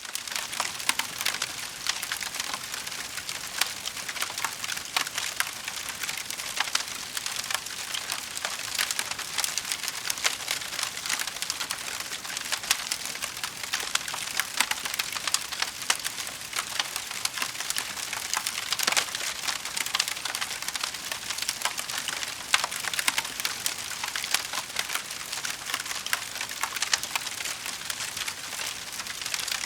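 Wood fire crackling steadily, with dense small pops and snaps over a constant hiss.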